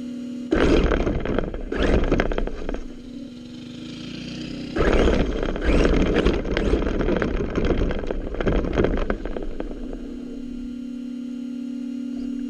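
An engine idling with a steady hum, broken twice by long, loud, rough stretches of engine and driving noise: the first starts about half a second in, the second runs from about five to nine seconds in, and then the idle hum returns.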